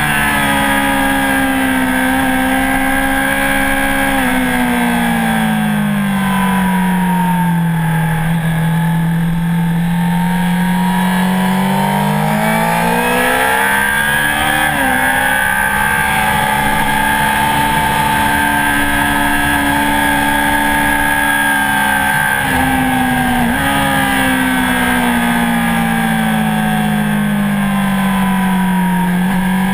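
Honda CBR1000RR Fireblade's inline-four engine heard from onboard at track speed, with wind rush. Its pitch falls for a few seconds, climbs again, breaks sharply at gear changes about fifteen and twenty-three seconds in, then falls as the bike slows near the end.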